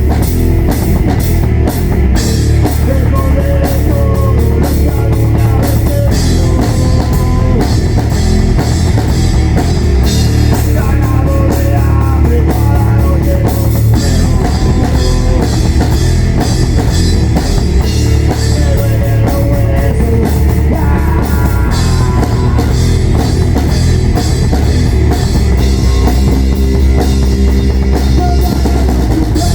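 Rock band playing a loud, heavy song live, with a full drum kit and cymbals.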